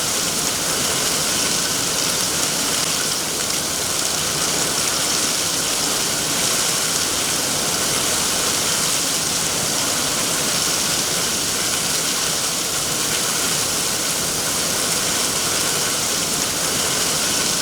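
Steady rain, an even hiss of falling drops with no pauses or single impacts.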